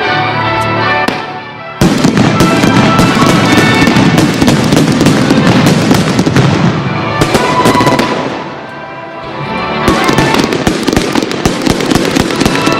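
Fireworks going off in a dense volley of rapid crackling bursts that starts suddenly about two seconds in, thins out past the middle and builds again near the end, over a music soundtrack.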